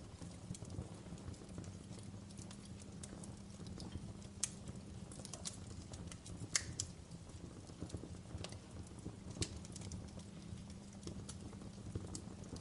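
Fireplace fire burning with a steady low rumble of flame and irregular sharp crackles and pops, the loudest a little after halfway through.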